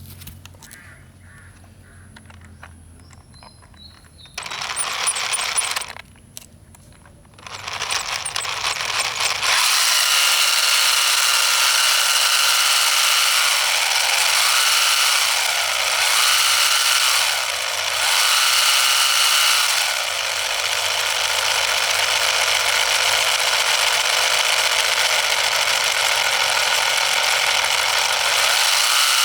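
Miniature diesel engine starting: a short burst about four seconds in, then from about eight seconds it picks up and settles into fast, steady, rattling running. Its speed dips and recovers a few times between about thirteen and twenty seconds in.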